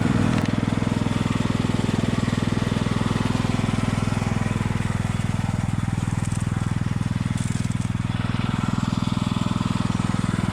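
Craftsman riding lawn mower engine running steadily at an even speed.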